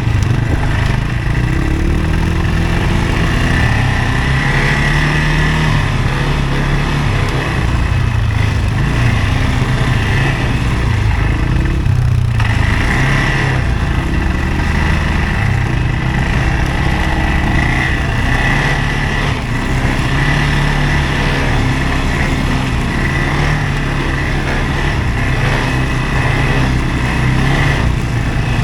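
CFMoto ATV engine running steadily under way, with a continuous engine drone and a steady whine above it.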